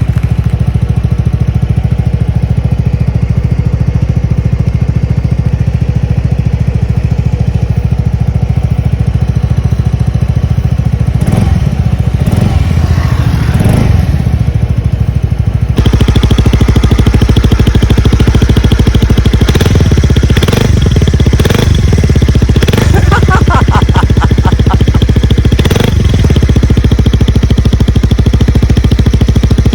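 Suzuki Skywave CJ46 big scooter engine idling steadily through its muffler after about a month of sitting unused. About 16 seconds in, the exhaust sound becomes louder and brighter, with a few clattering knocks scattered around it.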